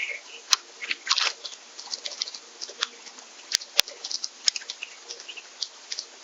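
Birds at a feeder pecking and cracking seeds: a quick, irregular scatter of sharp clicks and ticks, a few much louder than the rest, with a couple of brief soft chirps.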